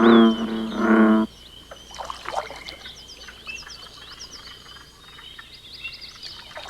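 Deep frog calls repeating about once a second, which stop about a second in, leaving a quieter chorus of high peeps and chirps over a thin steady trill.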